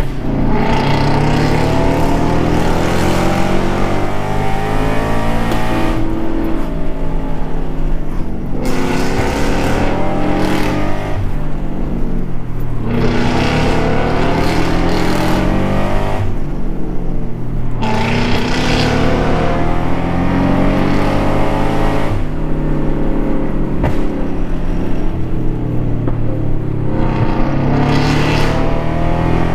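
Porsche sports car engine being driven hard on a winding road, its pitch climbing again and again as it pulls through the gears, with short dips at each gear change about half a dozen times.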